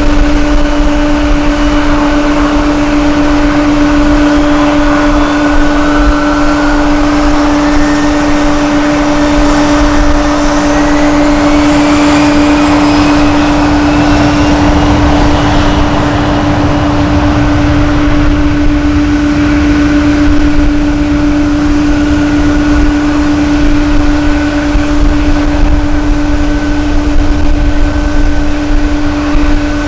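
Jet airliner engines at an airport: a steady droning hum, with a whine that rises in pitch between about six and sixteen seconds in. Low wind rumble on the microphone runs underneath and grows stronger in the second half.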